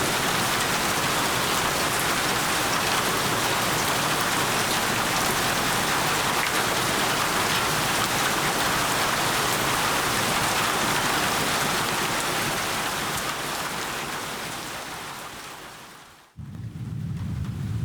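Steady rain falling, which fades away about three-quarters of the way through. It cuts to a deeper, rumbling rain sound near the end.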